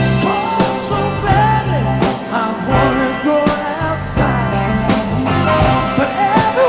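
Rock band playing a passage without lead vocal: drums and bass under a melody line that bends up and down in pitch.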